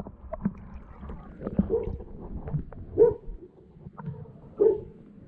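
A dog giving three short barks, a second or more apart, over water sloshing and lapping in a pool liner.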